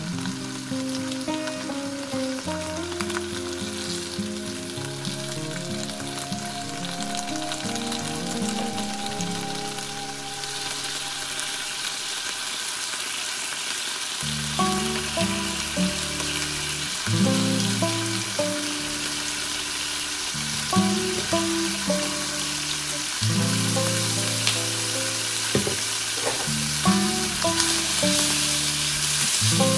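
Pork belly and lotus root slices sizzling in a hot frying pan, with background music playing. The sizzle grows louder partway through.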